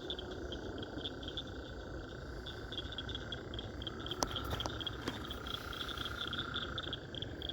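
Night chorus of frogs: a steady high trill with rapid, higher-pitched pulsed calls repeating over it.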